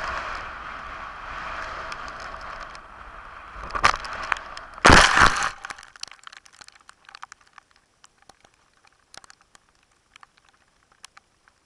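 Rustling noise on a small camera's microphone, two sharp clicks, and a loud brief scrape or crunch about five seconds in, after which the sound drops to faint scattered clicks.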